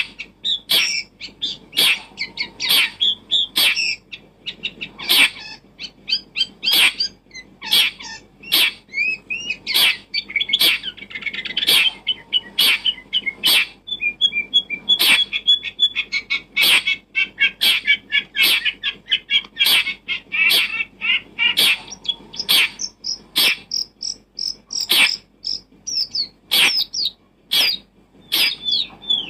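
Small birds chirping and twittering continuously, mixed with repeated sharp clicks or taps about one and a half times a second.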